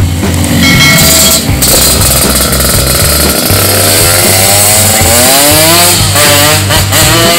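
Yamaha RX-King's single-cylinder two-stroke engine being revved, its pitch climbing in the second half and then sweeping up and down several times in quick blips, over background music.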